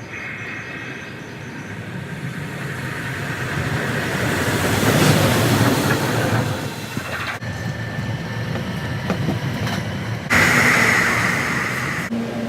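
Train noise sped up to double speed: a train's sound builds to a peak about five seconds in, then the audio cuts abruptly twice to other train clips, with a louder stretch starting about ten seconds in.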